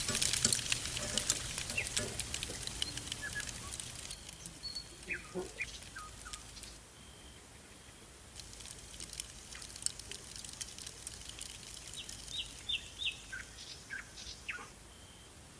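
Crackling and popping of meat rolls grilling over open coals, busy for the first three or four seconds and then dying away. After that, forest birds chirp in short calls that rise and fall in pitch, several in quick runs near the end.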